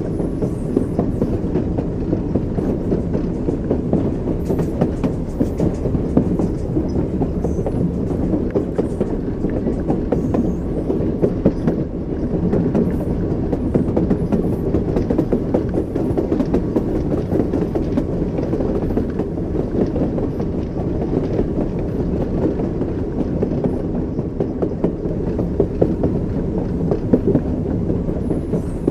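Train wheels clacking over the rail joints over a steady rumble of a moving railway car.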